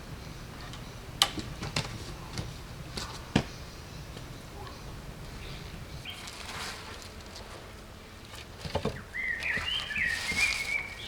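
Wood knocking sharply a few times, as sticks are handled. Near the end comes a wavering, high-pitched whistling tone lasting about two seconds.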